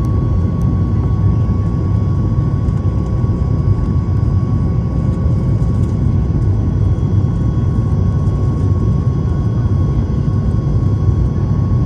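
Boeing 737 MAX 8's CFM LEAP-1B jet engines running steadily during takeoff and climb: an even, loud low rumble with a steady high whine over it.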